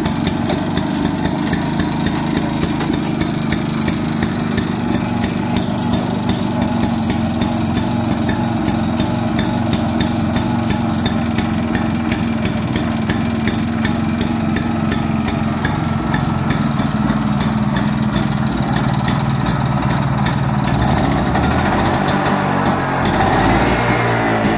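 Ilo L251 LR single-cylinder two-stroke engine of an Agria 1700 two-wheel tractor running steadily and evenly, with its note shifting a little near the end.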